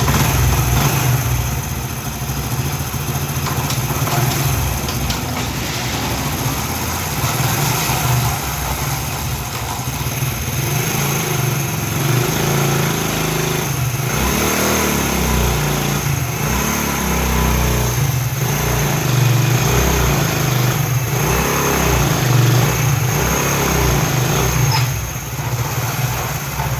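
Motorcycle engine running, revved up and down several times in the second half. No knocking comes from the piston or head, which the mechanic puts down to a newly fitted genuine head gasket in place of the blown one that had been leaking compression.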